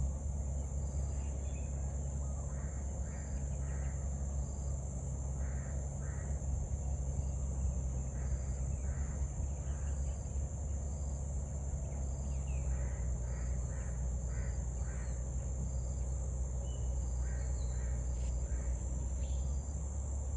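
Outdoor ambience: a steady high insect drone throughout, with a bird giving short harsh calls in groups of two to four every few seconds, over a steady low rumble.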